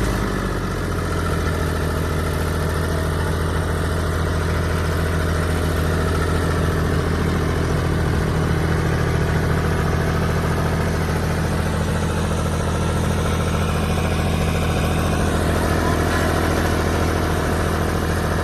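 Fiat 480 tractor's diesel engine running at a steady speed, its pitch holding constant throughout.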